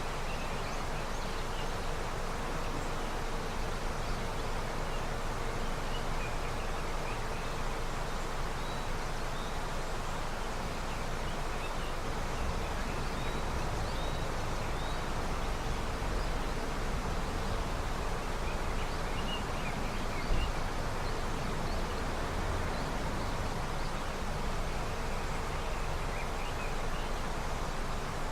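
Steady rushing of a river swollen with snowmelt, with faint, scattered bird chirps above it and a single brief low bump about twenty seconds in.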